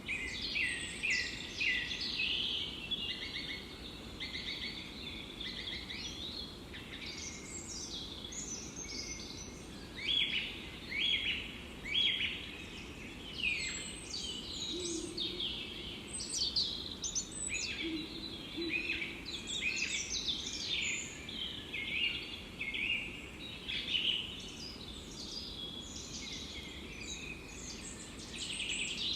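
Forest birdsong: several songbirds singing and chirping in quick overlapping phrases over a steady background hiss.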